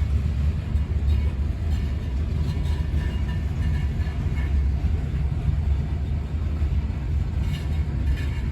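Freight train cars rolling past: a steady low rumble of wheels on the rails.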